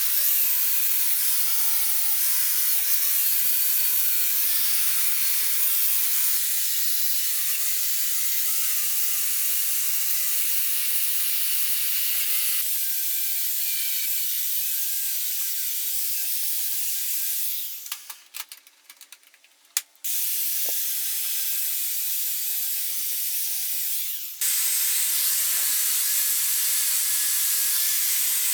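Power tool working on metal: a dense abrasive noise over a motor whine whose pitch wavers as the load changes. Past the middle it drops to near silence for about two seconds, then starts again.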